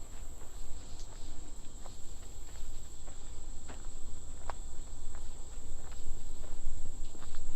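Insects trilling in a continuous high-pitched drone, with a few scattered footsteps on the trail.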